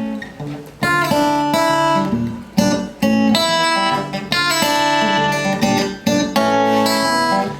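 Acoustic guitar playing a song's introduction: chords struck roughly every one to two seconds and left to ring.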